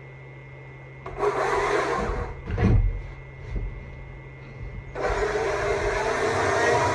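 Stihl MSA 200 C battery chainsaw carving wood: a rasping stretch of cutting about a second in and a heavy knock near three seconds. About five seconds in, the saw starts running steadily with an even electric-motor whine.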